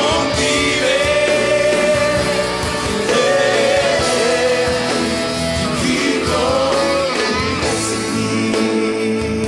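Church worship music: a voice singing held, sliding notes over a band with guitar.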